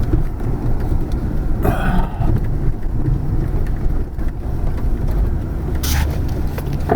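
Wind buffeting the microphone: a loud, uneven low rumble, with two brief brighter gusts of noise about two seconds in and near the end.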